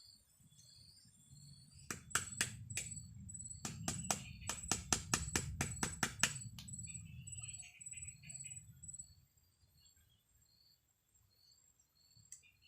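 A quick series of sharp knocks, about fifteen over four seconds, over a steady high chirping that repeats evenly.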